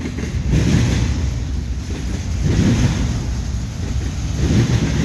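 CSX intermodal freight train passing close by: a steady, loud rumble of wheels on rail, swelling about every two seconds.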